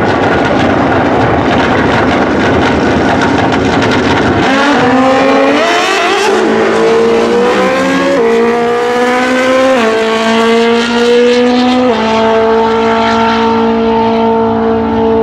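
Drag-racing motorcycles running at full throttle. A harsh, noisy engine blast fills the first four seconds or so, then clear engine tones climb and change pitch in sudden steps about eight, ten and twelve seconds in, as the bikes run up through the gears.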